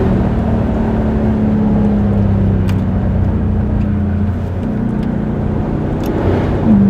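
Straight-piped 2021 Dodge Durango R/T's 5.7-litre Hemi V8, with an H-pipe and Dynomax Race Bullet resonators, droning steadily under way at highway speed. The drone eases briefly a little past halfway, then comes back and grows louder near the end as the throttle opens again.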